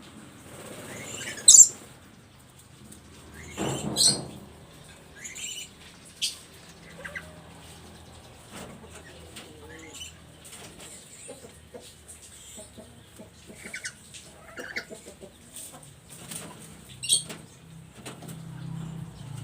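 Black-capped lory calling: a few sharp, loud shrieks, the loudest about a second and a half in and about four seconds in, another near the end, with softer short chattering calls between.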